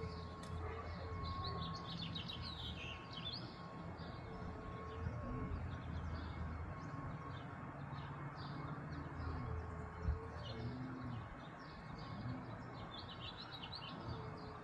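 House finch singing in short, fast warbled phrases, a song the uploader likens to an American robin's. A low cooing call, typical of a dove, repeats every four to five seconds beneath it over a steady low rumble, with one sharp knock about ten seconds in.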